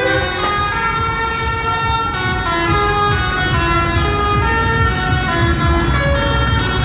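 A tune of held notes stepping up and down every third to half second, over the low rumble of parade lorry and tractor engines.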